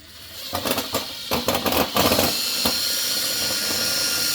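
Handheld power drill running at a steady high whine for about three seconds, after a couple of seconds of clicks and knocks from handling the tool and fan-blade parts.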